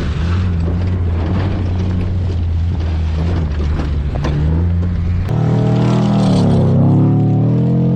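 Pickup truck engine running steadily under load with road and gravel noise, then from about five seconds in revving up and down in pitch as it pulls harder.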